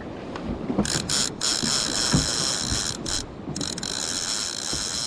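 Fishing reel's ratchet clicker buzzing in fast runs as line moves on the spool, starting about a second in with a few short breaks, over the low rumble of wind and the boat.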